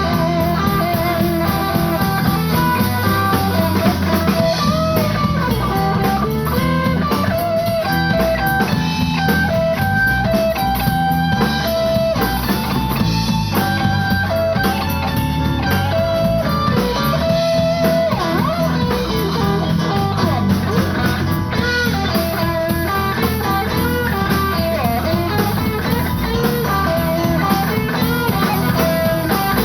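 Live blues band playing: electric guitar over bass and drum kit, with a lead line of held, wavering notes.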